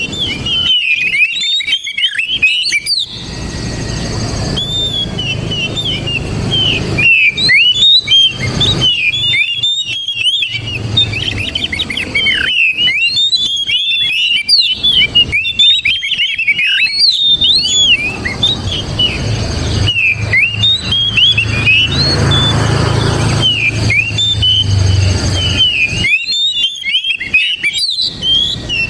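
Oriental magpie-robin (kacer) singing a fast, varied run of whistles and chirps with short pauses, over a low rumble through most of the middle.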